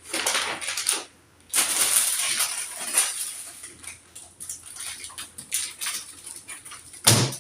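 Items being handled while sorting supplies: two long stretches of rustling and scraping, then scattered light clicks and clatter, and one sharp knock shortly before the end.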